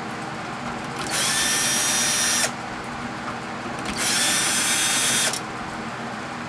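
Power drill running in two bursts of about a second and a half each, with a steady high whine, driving out screws from a microwave oven's casing.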